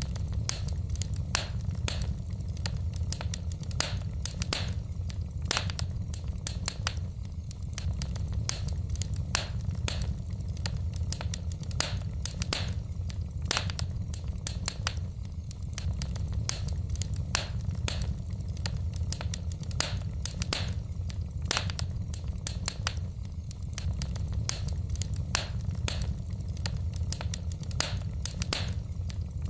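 Wood fire burning in a fireplace, the logs crackling with frequent irregular sharp pops and snaps over a steady low rumble.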